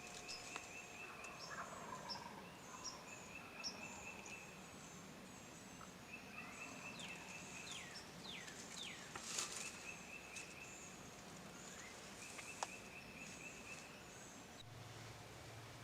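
Faint wild birds calling, with short high chirps and repeated trills of about a second each, a few quick downward-sweeping calls near the middle, and a single sharp tick about three-quarters of the way through.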